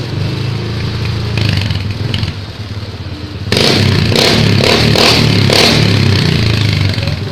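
Honda PCX scooter's single-cylinder engine running through an aftermarket racing exhaust: idling steadily, then revved hard from about halfway in, the throttle blipped several times, and dropping back toward idle near the end.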